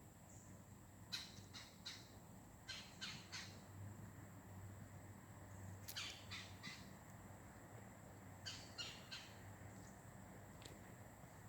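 A bird calling in four bursts of three short, harsh notes, faint over quiet background.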